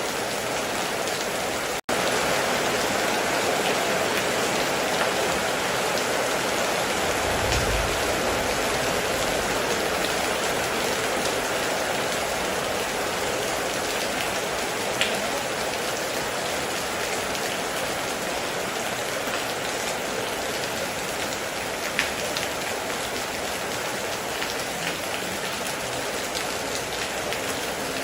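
Steady heavy rain, an even hiss with a few sharper drop hits. The sound cuts out for an instant about two seconds in.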